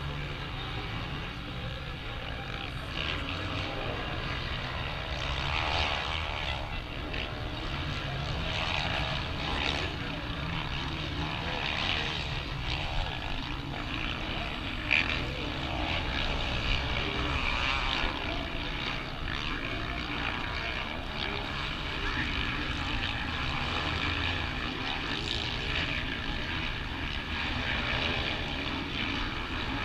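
Motocross bike engines racing, a buzzing engine sound that swells and fades in pitch and loudness every few seconds as bikes rev and pass.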